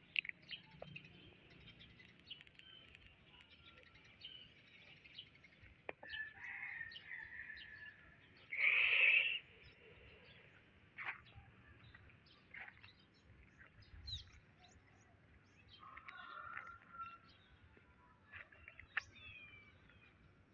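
Birds chirping and calling, with many short chirps throughout and one louder sound lasting about a second, about nine seconds in.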